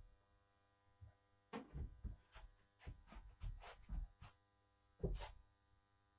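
A handful of irregular light knocks and clanks from an engine being handled on a hoist, with one sharper, louder knock about five seconds in.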